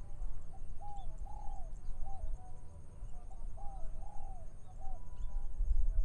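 A dove cooing in short phrases of two or three arched notes, repeated every second or two, with wind rumbling low on the microphone.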